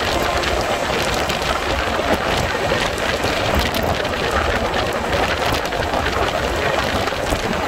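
Steady noise of rain and rushing air at the doorway of a passenger train running at about 130 km/h, over the train's running noise on the track.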